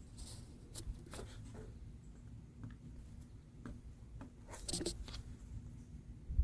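Faint handling sounds of a gasket being pressed onto a lawnmower air filter housing: light rubbing with a few small clicks, a short cluster of them a little past the middle.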